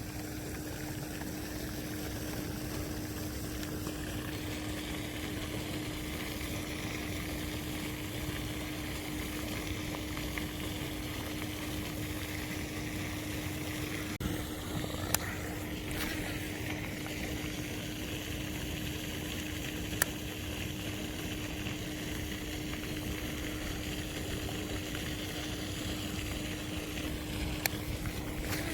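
A pond fountain splashing steadily, with a steady hum running under it. A few short, sharp clicks come midway.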